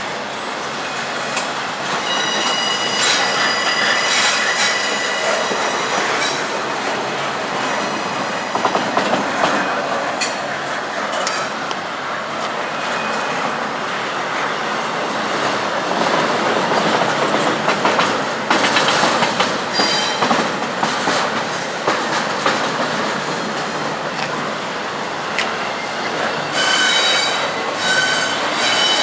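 Norfolk Southern intermodal freight cars rolling slowly past on the rails, a steady rumble with clatter from the wheels. High-pitched wheel squeal rises out of it a few seconds in and again near the end.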